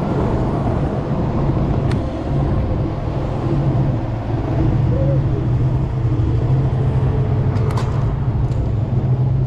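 Street traffic heard from a moving e-bike: a steady low vehicle hum over road and wind noise, with a couple of short clicks about two seconds in and near the end.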